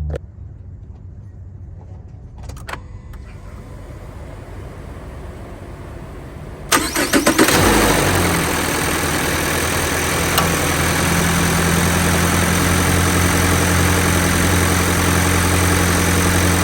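Subaru FB20 2.0-litre flat-four engine cranking briefly about seven seconds in, catching and settling into a steady idle, just after a new serpentine drive belt has been fitted. A couple of light clicks come a few seconds before the cranking.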